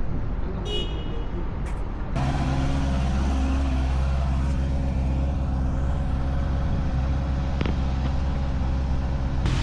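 Honda CBR650R inline-four engine running, settling into a steady, even note about two seconds in. A short high beep sounds about a second in.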